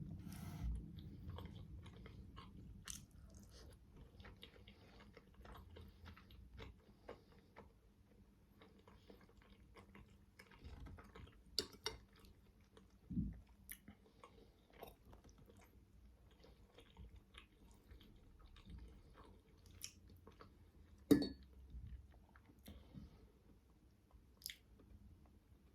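Close-up chewing and mouth sounds of someone eating steamed manti dumplings, soft wet chews with scattered small clicks and a few sharper smacks.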